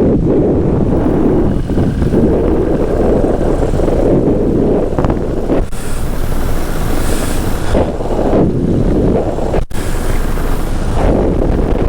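Steady, loud wind rushing over the microphone as a paramotor glides down on speed bar with the throttle off. The noise cuts out for an instant about ten seconds in.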